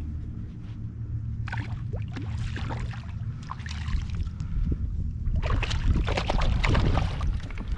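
Water splashing and dripping around a kayak in two spells, one starting about a second and a half in and a busier one near the end, over a low steady rumble.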